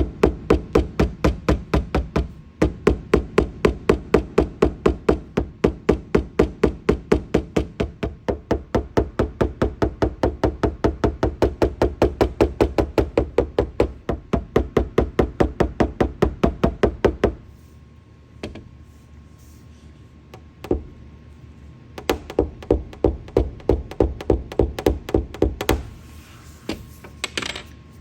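Steady, rapid hammer tapping on a car's sheet-metal roof panel, about three or four strikes a second, while a hail dent is worked out. The tapping stops for a few seconds, with a few single knocks, then resumes for a shorter run.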